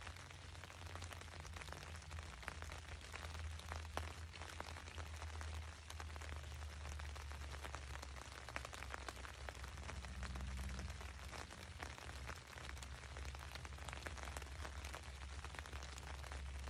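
Rain pattering on a tent's fabric: a steady hiss full of small, irregular drop ticks, over a steady low rumble.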